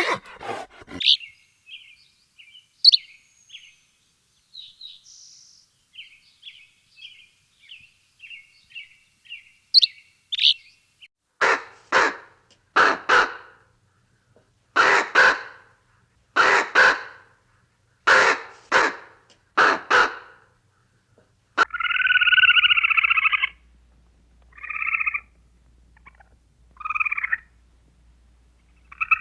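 Bird calls: a run of small, high chirps, then a string of harsh calls, mostly in pairs, and near the end a longer held call followed by a few short ones.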